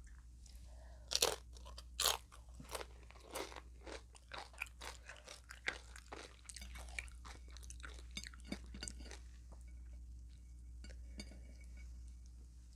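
Biting into a hard, crunchy taco shell and chewing it: two loud crunches about one and two seconds in, then a run of smaller crunching chews that dies down after about nine seconds.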